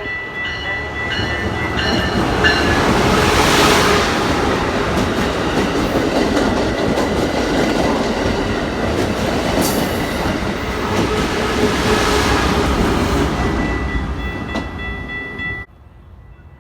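Train passing close by on the rails, its rumble building over the first few seconds and holding loud, with a steady high ringing tone over it. The sound cuts off suddenly near the end.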